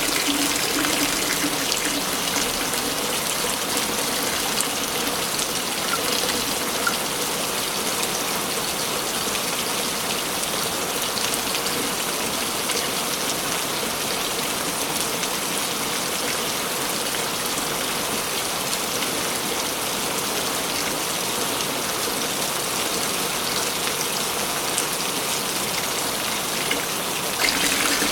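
Waterfall: a steady rush of falling water, stepping up slightly in level near the end.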